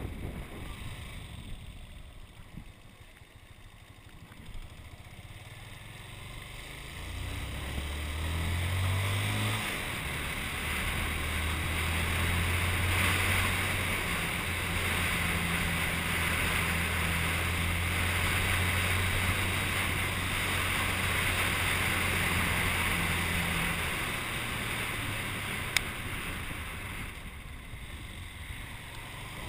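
Honda CG125's single-cylinder four-stroke engine on the move, under a steady rush of wind and road noise. After a quieter first few seconds, the revs climb about seven seconds in as it accelerates. The engine then holds a steady note at cruising speed before easing off near the end.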